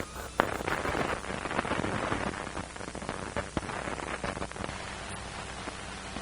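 Crackle and hiss of a worn early-1930s optical film soundtrack: a steady hiss dotted with many irregular clicks and pops, with no music yet.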